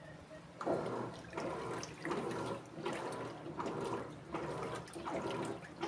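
Electrolux Essential Care LED14 washing machine agitating during its soak stage: after a brief quiet pause, the water starts sloshing about half a second in, in rhythmic surges about one every three-quarters of a second.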